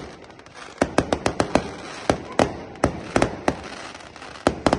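Fireworks going off in a rapid, irregular series of sharp bangs, some in quick clusters of several a second with short lulls between.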